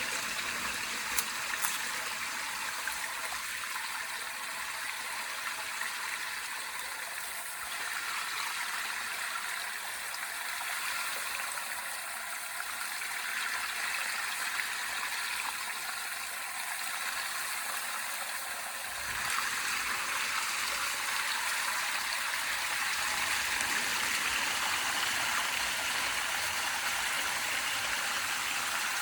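Water rushing steadily through a culvert drain being unclogged of flood debris, growing louder about two-thirds of the way through.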